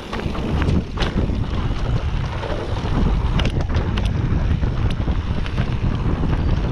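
Wind rushing over the microphone of a camera carried on a moving mountain bike, with scattered clicks and rattles from the bike.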